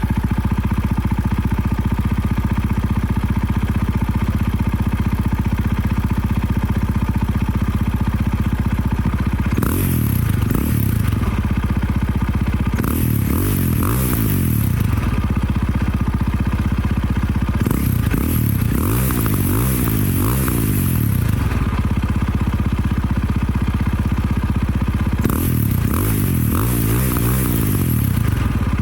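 KTM 640 LC4 single-cylinder four-stroke motorcycle engine through an Akrapovic exhaust with the dB killer removed, idling steadily just after starting, then revved in quick throttle blips in four bursts, about ten seconds in, around thirteen, around eighteen and near the end, dropping back to idle between them.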